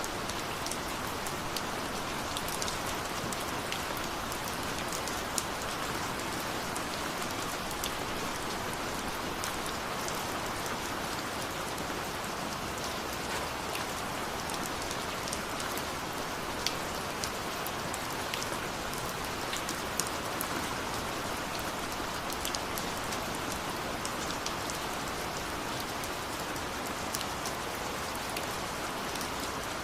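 Steady rain falling, a constant hiss with scattered sharp drop ticks of individual raindrops striking a surface.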